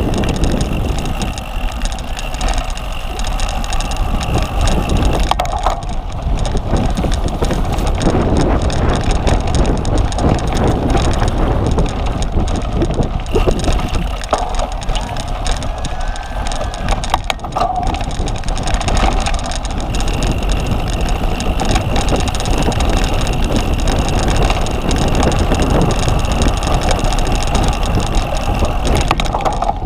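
Cyclocross bike being ridden hard: continuous wind buffeting on the on-board microphone over the rumble of tyres on rough ground.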